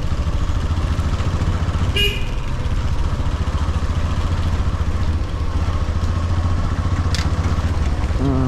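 Motorcycle engine running steadily while riding, with a brief vehicle horn beep about two seconds in.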